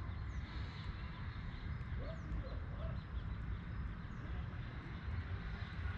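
Wind rumbling on the microphone, with a few faint, short, high chirps from birds.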